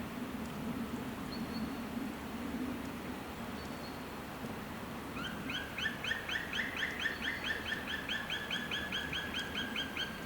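A bird calling in a fast series of short, clear, repeated notes, about four to five a second. The calling starts about halfway in and runs on over a steady low background hum.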